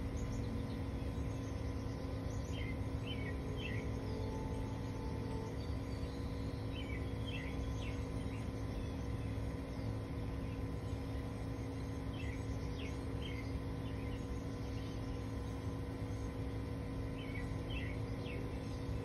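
Small birds chirping in short groups every few seconds over a steady low rumble and a constant hum.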